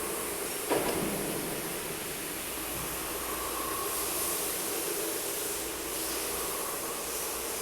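Steady hum and hiss of factory machinery in a metalworking workshop, with one sharp metallic clank about a second in.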